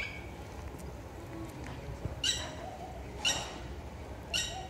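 A bird calling: three short, high-pitched chirps, about a second apart, in the second half.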